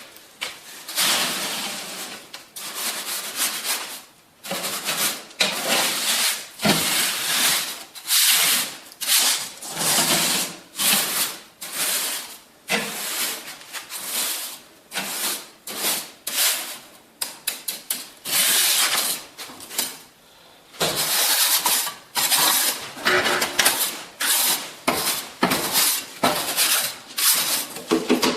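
Steel trowel scraping and working through wet mortar in repeated, irregular strokes: a runny mix being stirred and spread.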